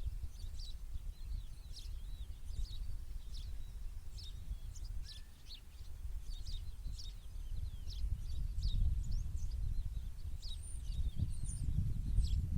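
Small birds chirping over and over in short, quick high notes, with a steady low rumble underneath that grows louder about two-thirds of the way through.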